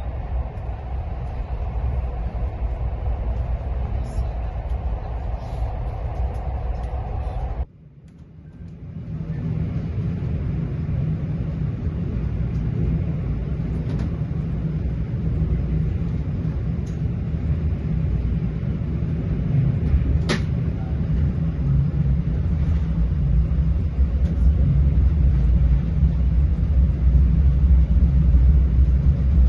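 Inside a passenger train carriage: steady low rumble of the train running on the rails. About eight seconds in the sound cuts out abruptly and fades back in, and a few sharp clicks are heard later on; the rumble grows louder near the end.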